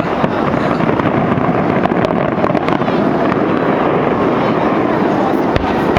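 Fireworks going off: a few sharp bangs over a loud, steady din.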